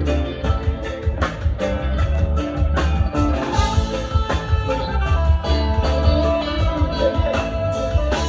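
Band music with guitar over a heavy bass line and drums keeping a steady beat.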